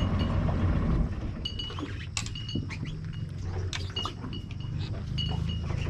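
A boat engine running with a steady low drone that eases off about a second in, while short, high squeaky chirps sound every second or so over it.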